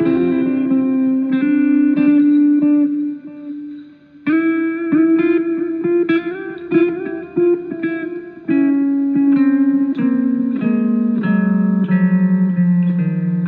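A guitar played solo, picking out single notes in a melodic line. It breaks off briefly about four seconds in, then steps down in pitch through the second half.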